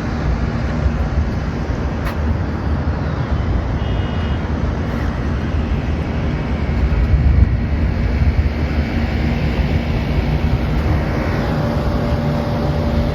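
Steady low rumble of city traffic noise and wind heard from high up, with a faint steady hum underneath.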